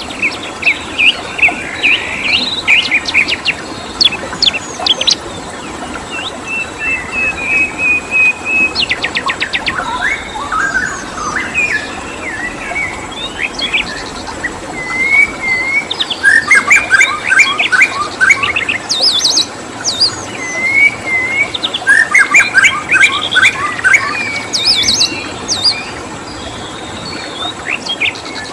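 Several songbirds chirping and singing, with fast repeated trill phrases and whistled notes overlapping, over a steady background hiss.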